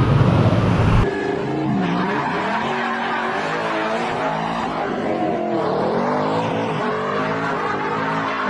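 A steady low drone cuts off abruptly about a second in. Then a Ford Mustang's engine revs hard, its pitch rising and falling again and again, with tyres skidding, as in a burnout or donut.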